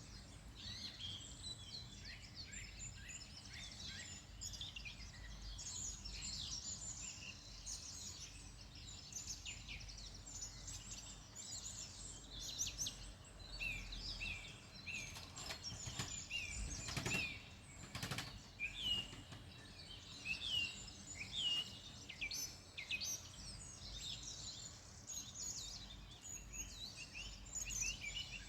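Many small birds chirping and trilling at once in a continuous busy chorus of short, high calls. A few soft knocks sound about two-thirds of the way through.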